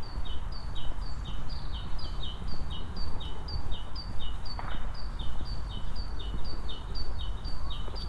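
Footsteps of a person walking along a path, with a bird singing a high two-note phrase over and over, about twice a second.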